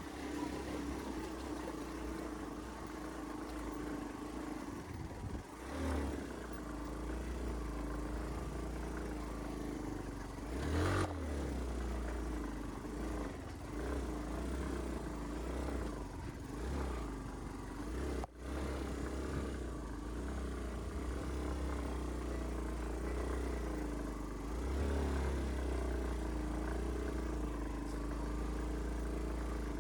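Motorcycle engine running at a steady pitch while riding a rough mountain track, with a heavy low rumble and a few brief knocks from the ride.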